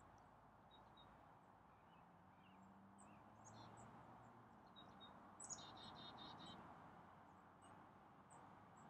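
Near silence with faint, scattered high bird chirps, and a short rapid trill a little past halfway.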